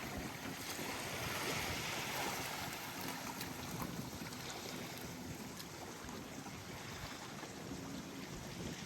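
Small waves washing onto the beach, a wash of surf that swells about a second in and then eases, with light wind on the microphone.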